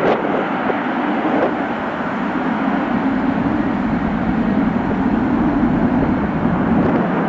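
Airliner jet engines running with a steady rumble that grows slightly louder, over a wind-buffeted noise.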